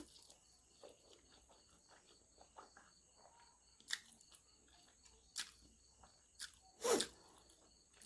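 Quiet eating and handling sounds: a few sharp clicks and smacks, the loudest about seven seconds in, over a faint, evenly pulsing high chirp in the background.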